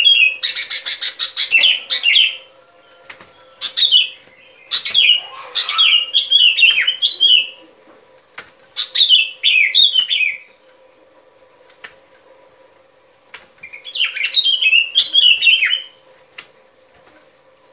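Bulbul (chim bông lau) song: bouts of quick, bubbling chattering phrases that come in five bursts, with pauses between them.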